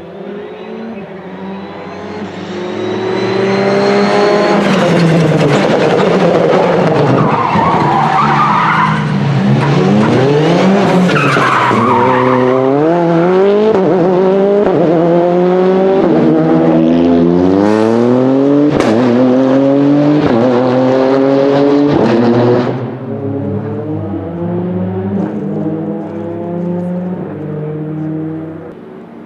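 A rally car's engine revving hard and climbing through the gears as the car passes close, with tyres squealing and skidding twice as it brakes and turns. A few sharp pops come near the middle, and the engine fades away near the end.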